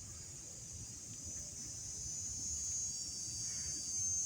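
Cicadas droning in a steady, high-pitched chorus that grows a little louder toward the end.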